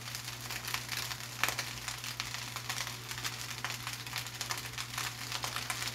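Fried rice sizzling in a large wok, with small clicks and scrapes of a metal spatula stirring in freshly added celery.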